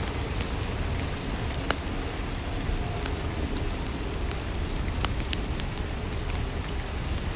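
Steady rainfall, an even hiss with scattered light clicks of single drops or snaps.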